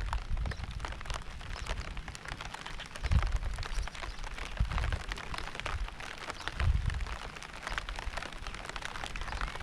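Rain falling, with many individual drops ticking over a steady hiss. Low rumbles swell up twice, about three seconds in and again near seven seconds.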